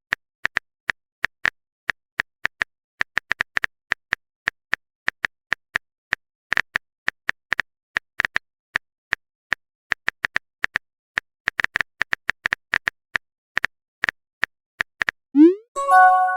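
Phone keyboard typing clicks, short and sharp, tapped out unevenly at several a second. Near the end come a short rising swoosh and a chime-like message tone.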